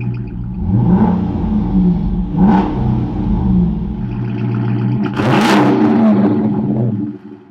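Hemi V8 exhaust through Carven R mufflers with the resonators deleted: the engine idles and is revved three times, the third rev the loudest and longest, then it settles back down near the end.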